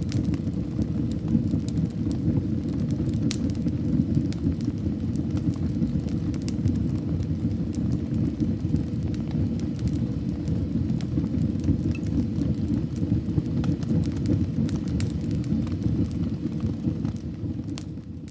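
Fire in a fireplace burning, with a steady low rumble of flames and scattered crackles and pops. It fades out near the end.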